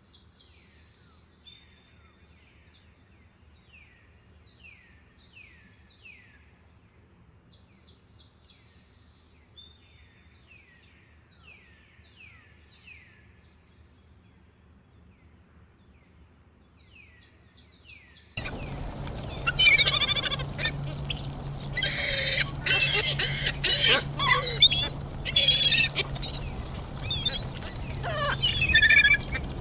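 Forest birdsong. At first a faint bird repeats a short falling chirp about once a second over a steady high tone. About eighteen seconds in, it switches suddenly to loud, dense song from several birds.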